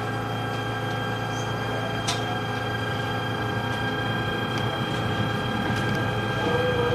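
E129 series electric multiple unit with a Toyo IGBT VVVF inverter and traction motors, whining in steady tones over rail rumble as the train pulls away from a station, slowly getting louder. One click about two seconds in.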